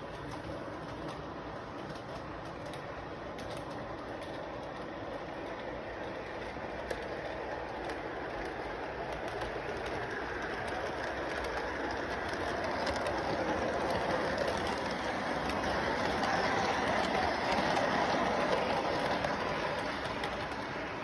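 A train running along its track, a steady rumbling noise that grows louder about halfway through, peaks, then eases off near the end as it passes.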